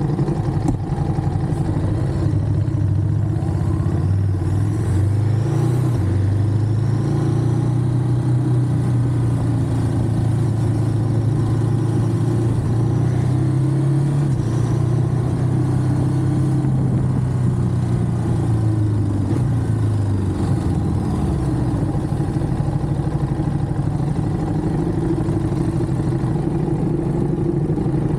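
Ducati Monster's L-twin engine running on the road. Its pitch rises about five seconds in, holds steady for a while, and drops away about twenty seconds in.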